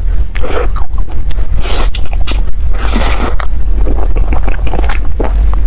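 Close-miked eating: wet chewing and mouth clicks with a few short rustling swishes, over a steady low rumble.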